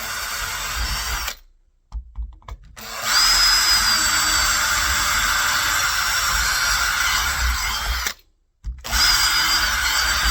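Power drill with a 5 mm bit drilling holes into a door, run in three goes: a short burst of about a second, a long steady run of about five seconds, and another short run near the end.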